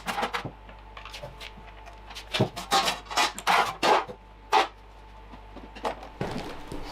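Small metal parts and tools clicking and clattering as they are handled and fitted, a scatter of sharp knocks that comes thickest in the middle.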